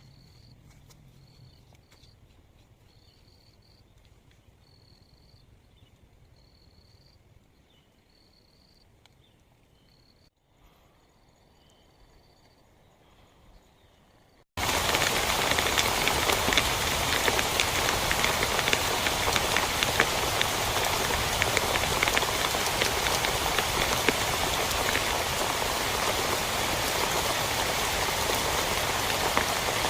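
Quiet at first, with faint short high chirps repeating about once a second; about halfway it cuts suddenly to heavy rain, a loud steady hiss of falling rain.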